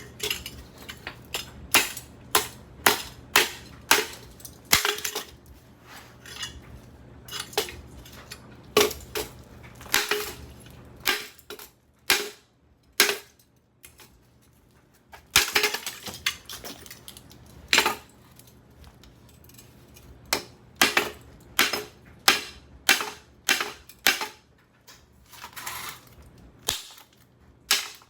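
Repeated hard blows on the steel housing of a Craftmade ceiling fan motor as it is smashed apart. The sharp metallic impacts are irregularly spaced, about one or two a second, and some ring briefly.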